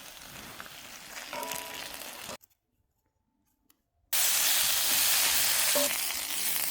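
Food frying in a hot pan: a softer sizzle, a gap of near silence lasting nearly two seconds, then a loud, steady sizzle and hiss from about four seconds in.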